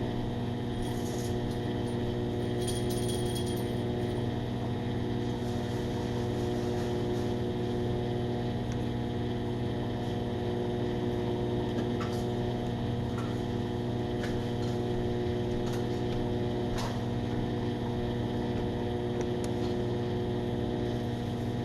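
Microwave oven running with a steady hum, heating an Angry Mama steam cleaner inside; a few faint clicks sound over it.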